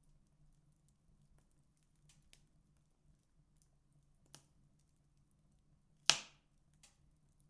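Wood fire crackling in a fireplace: a few faint, sparse crackles and one loud pop about six seconds in, with a smaller one just after it.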